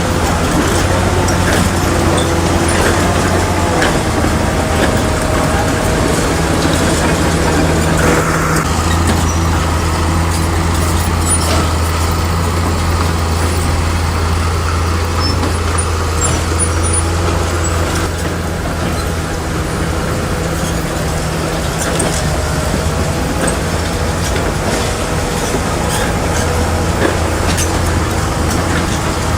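Heavy diesel engine of a bulldozer running steadily at a constant pitch.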